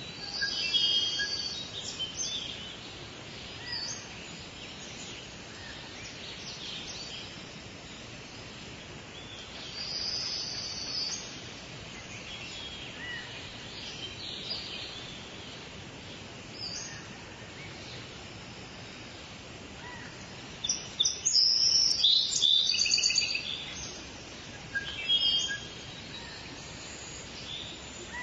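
Several songbirds singing and chirping over a steady background hiss of forest ambience, with the loudest, busiest bursts of song about a second in, around ten seconds in, and for two or three seconds around twenty-one seconds in.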